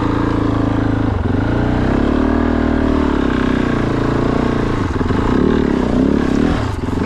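Kove 450 Rally's single-cylinder engine running under load as the bike picks its way through a rough section of single track, the revs rising and falling with the throttle several times.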